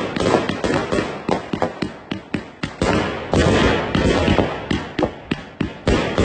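Night Owl 'Magic Man' consumer fireworks cake firing: a rapid string of sharp shots and bangs, several a second, with a noisy hiss between them.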